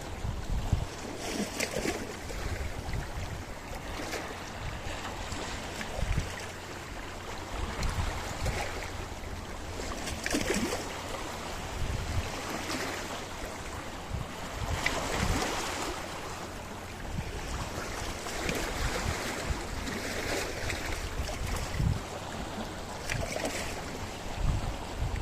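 Sea waves breaking and washing over a rocky shore, surging every few seconds, with wind buffeting the microphone.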